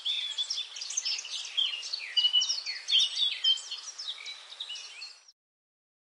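Several birds chirping and singing at once, many short quick notes overlapping over a steady hiss of forest ambience. It cuts off abruptly about five seconds in.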